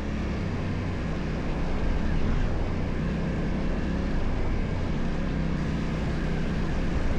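Yamaha Ténéré 700's parallel-twin engine running steadily as the motorcycle rides along, with a steady rushing noise over it.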